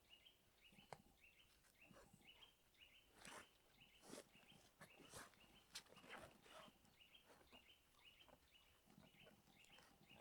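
Near silence, broken by faint scattered rustles and clicks close by, with a faint high chirp repeating over and over in the background.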